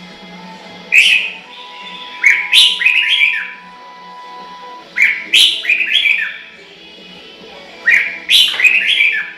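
Chinese hwamei singing: loud, clear whistled phrases of several quickly rising and falling notes, given four times with short pauses between.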